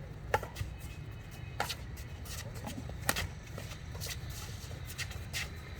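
Several sharp clicks of hard game pieces striking one another, irregularly spaced, over a steady low hum.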